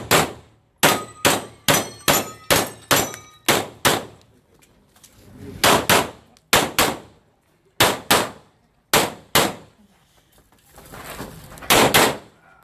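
Rapid pistol fire: about twenty shots in quick strings of two to four, with pauses between strings, and steel targets ringing after several of the shots in the first few seconds.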